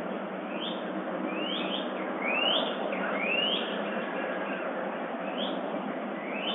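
Songbirds of the dawn chorus chirping, short rising notes about once a second, some in quick pairs, over a steady hiss.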